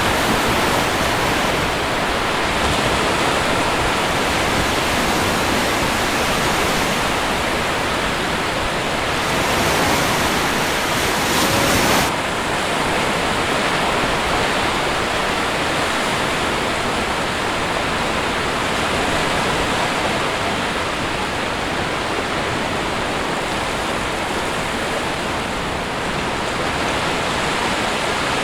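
Sea waves breaking on a shore: a steady, dense rush of surf. The highest hiss drops away suddenly about twelve seconds in.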